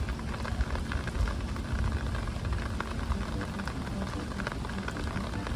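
Rain falling steadily: a dense patter of drops with a low rumble underneath.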